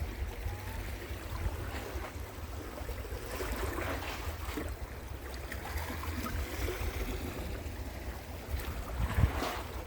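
Wind rumbling on the microphone over the wash of sea waves, with a louder knock or gust near the end.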